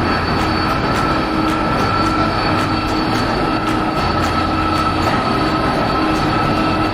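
Jet airliner engines running with a loud, steady rush and a high, even whine.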